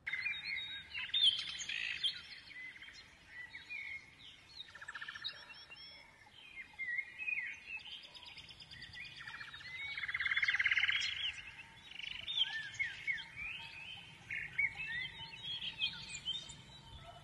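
Several birds chirping and calling, with many quick rising and falling whistled notes and a buzzy trill about five seconds in and a louder one about ten seconds in.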